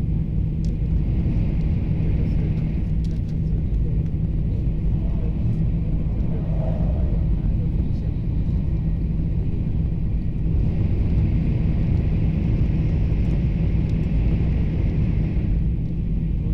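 Cabin noise of a Taiwan High Speed Rail 700T train running at high speed: a steady deep rumble with a low hum, and a higher hiss that swells about a second in and again from about ten seconds in until near the end.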